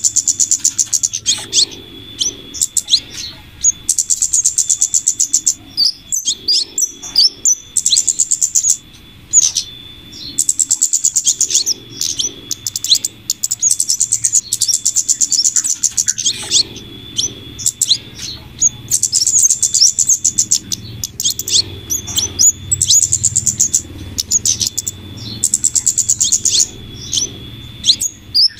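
Bird-lure recording of flowerpecker calls combined with female scarlet minivet calls. Rapid high-pitched ticking trills, each a second or two long, repeat every few seconds, with sharp single chirps between them.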